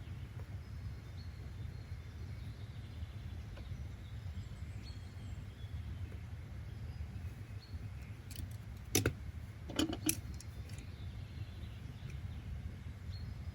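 Steady low ambient rumble of outdoor background noise with faint, scattered bird chirps. A few sharp clicks come about nine and ten seconds in.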